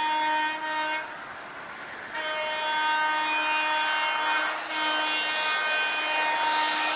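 Train horn blowing in long, steady blasts. One blast breaks off about a second in, and after a second's gap two more follow, each a couple of seconds long. Train running noise fills the gaps.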